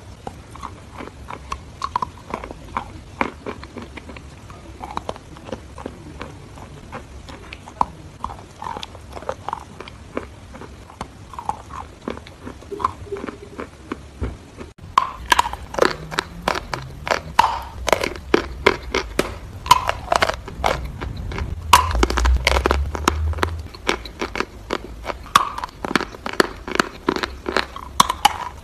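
Close-up chewing of wet chalk: a steady run of sharp, crackly crunches as the teeth break it up. About halfway through the crunches become louder and denser.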